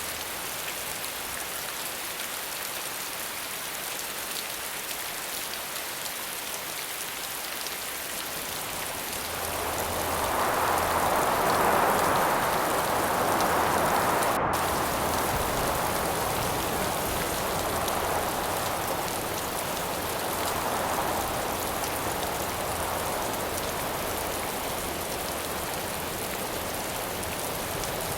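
Steady rainfall hissing, which swells noticeably louder about a third of the way in and then slowly eases back.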